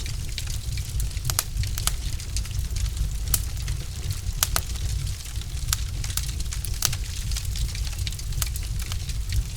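Wood fire burning in a fireplace: a steady low rumble of flame with frequent irregular crackles and sharp pops from the burning logs.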